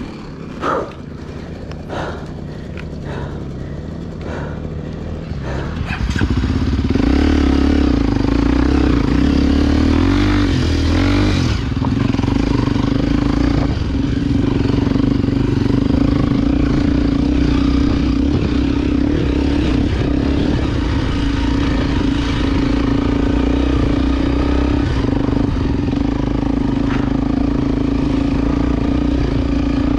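Honda XR Tornado trail bike's single-cylinder engine, big-bored to 293 cc. For the first few seconds it runs low under scattered knocks and clatter. About six seconds in it opens up and holds a loud, steady note at higher revs.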